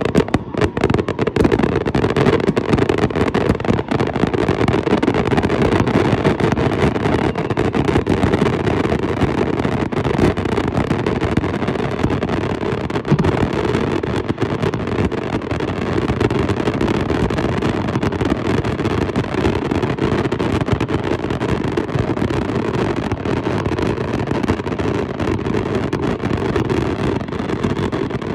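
Fireworks show in a dense, unbroken barrage: many shells and ground effects going off at once, blending into a continuous crackle and rumble. It is loudest in the first several seconds and eases slightly toward the end.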